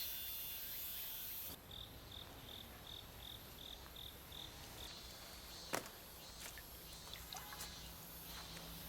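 Faint cricket chirping in a quiet scene, about three short high chirps a second for a few seconds, with a single sharp click near the middle and a low steady hum coming in near the end.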